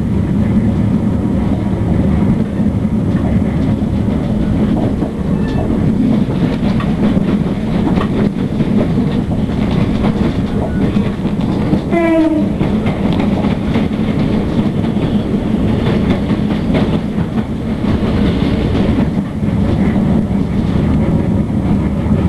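Running noise of a Class 458 'Juniper' electric multiple unit heard from inside the carriage: a steady rumble of wheels on rail with scattered light clicks. About halfway through, the train's horn gives one short blast as it passes a whistle board.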